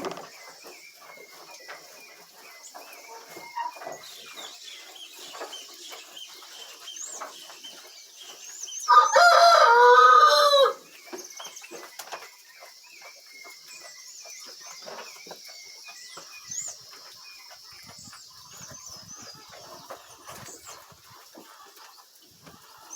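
A rooster crows once, a loud call about two seconds long, about nine seconds in. Behind it run high chirps and scattered light clicks.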